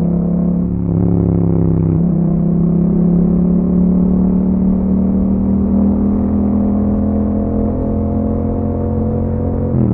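Yamaha MT-07's 689 cc parallel-twin engine running through an Akrapovic exhaust under way. The revs hold fairly steady and creep up slowly, with a sudden pitch step about two seconds in and a drop in pitch near the end, as at a gear change.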